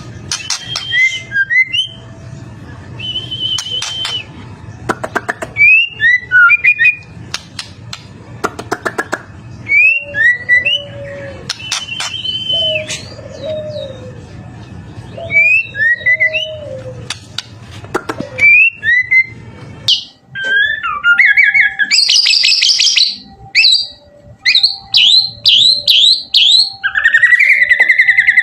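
White-rumped shama singing a varied song of quick rising and falling whistles, sharp clicks and rapid chattering trills. A steady low hum under the song stops about two-thirds of the way through.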